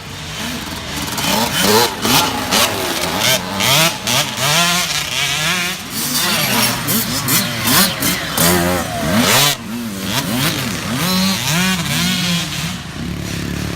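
Several small youth motocross bikes (Pee Wee and mini dirt bikes) racing, their engines revving up and down repeatedly as they accelerate and shift around the track. The overlapping pitches rise and fall throughout.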